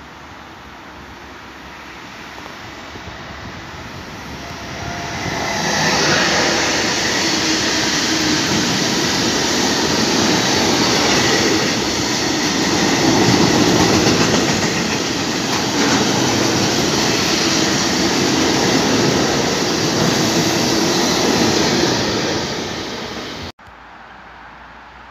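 A long freight train of tank wagons hauled by an electric locomotive passing through: the rolling rumble and rattle of wheels on rails builds over the first few seconds as it approaches, then stays loud as the wagons roll by, and cuts off suddenly near the end.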